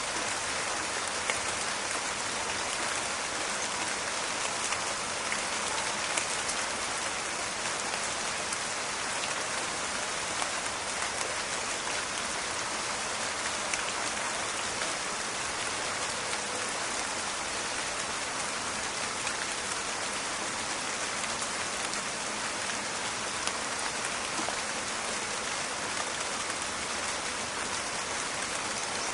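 Steady rain falling in a forest: a dense hiss of drops with many small, sharp crackling patters on top.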